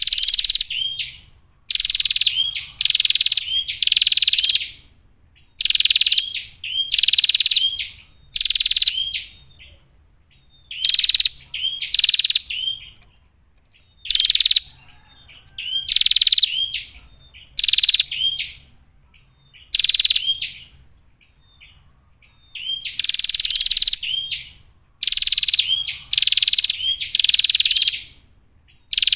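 Female prinia (prenjak) calling over and over: rasping bursts about a second long, each ending in a short hooked note, repeated about once a second with two brief pauses.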